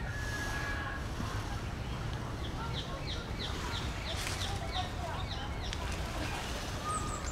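Outdoor birdsong: a bird sings a run of about ten quick, high down-slurred notes in the middle, with a few other short whistled notes around it, over a steady low rumble.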